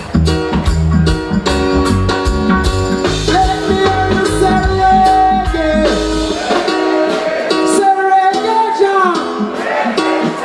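Live reggae band playing a passage with guitar and bass. The bass drops out about six seconds in, leaving guitar and a bending melody line.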